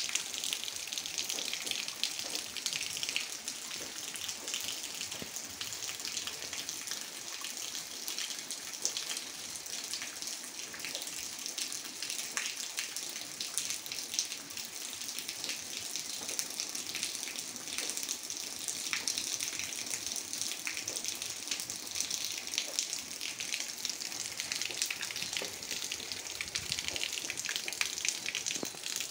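Steady rain falling, a constant hiss of water with many small drop ticks and splashes.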